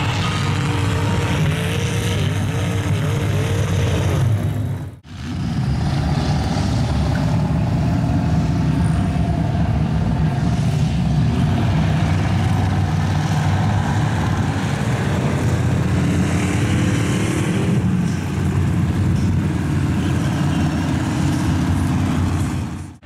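Mud truck engines running loudly. The sound cuts out sharply for a moment about five seconds in, then carries on.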